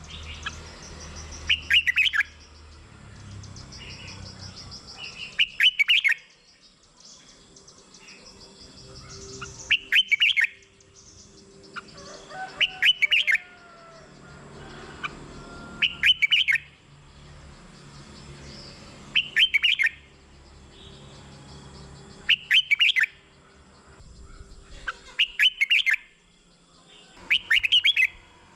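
Red-whiskered bulbul singing: short, loud song phrases repeated about every three to four seconds.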